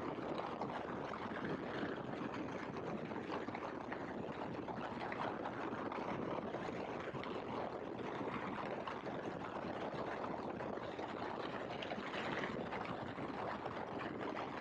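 Great Lakes open-cockpit biplane in flight: steady engine and slipstream noise without change.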